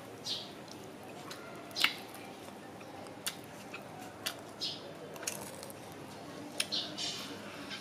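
Chewing and crunching crispy deep-fried chicken coating: a series of short sharp crackles, the loudest a little under two seconds in.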